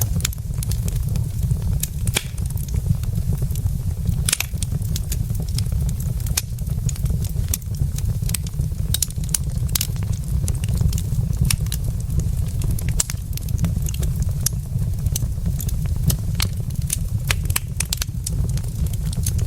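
Burning wood logs in a fireplace crackling, with frequent sharp pops and a louder crack about four seconds in, over a steady low rumble.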